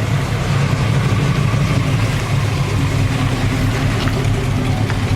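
A car engine running steadily at low revs.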